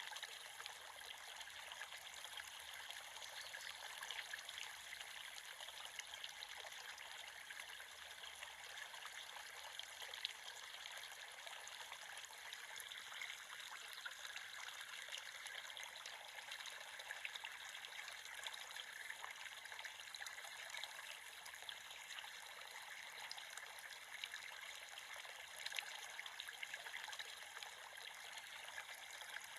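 A small creek flowing: a steady trickling babble, full of tiny splashes, with no deep rumble.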